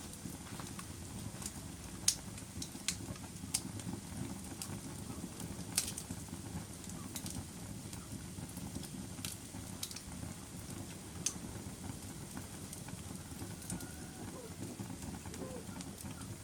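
Wood fire burning in a fireplace: a steady low rumble of flames with irregular sharp crackles and pops, the loudest about two seconds in and again near six seconds.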